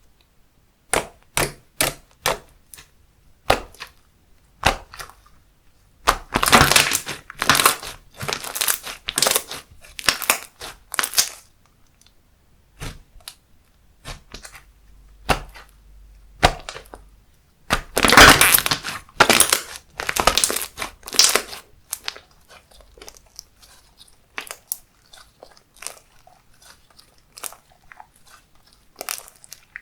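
Slime being squeezed and pressed by hand, making sharp clicks, pops and crackles. There are two longer runs of dense crackling, about a quarter of the way in and again past the middle, with scattered single pops between them.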